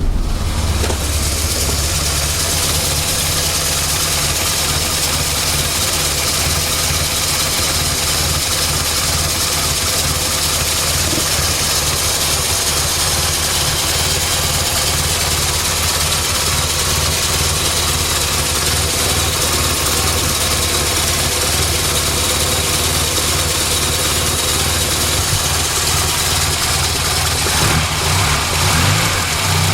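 1970 Morris Minor's 1098 cc A-series four-cylinder engine idling steadily with the choke pushed fully in, warmed up. The idle wavers briefly near the end.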